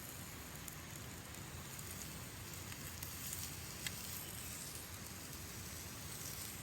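Chicken thigh sizzling steadily as it grills over a campfire, with a few faint crackles from the fire.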